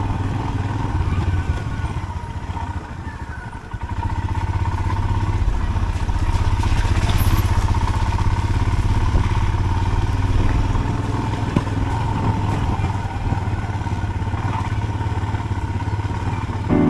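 Royal Enfield motorcycle engine running steadily while riding; it eases off about three and a half seconds in, then picks up again.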